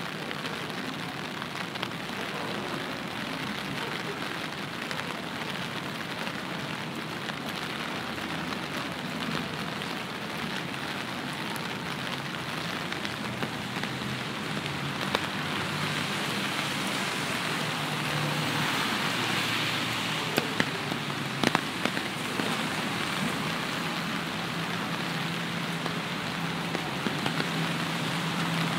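Steady rain falling, growing somewhat louder past the middle, with a few sharp clicks about two-thirds of the way through and a low steady hum coming in near the end.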